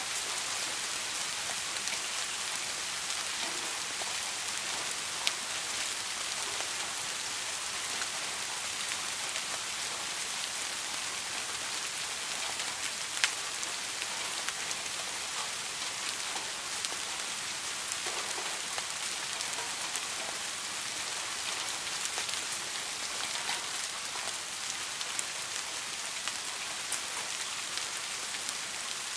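Soft rain falling steadily: an even hiss of rain with scattered drop ticks, two sharper drips about 5 and 13 seconds in. No thunder.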